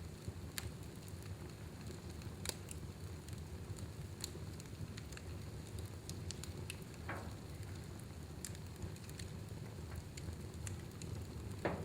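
Fire burning in a fireplace: a steady low rumble of flames with irregular sharp crackles and pops, the loudest pop near the end.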